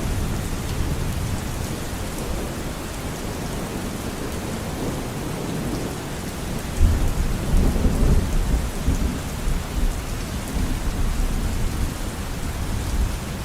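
Steady rain with low thunder rumbling under it; a louder roll of thunder breaks in about seven seconds in and dies away over a few seconds.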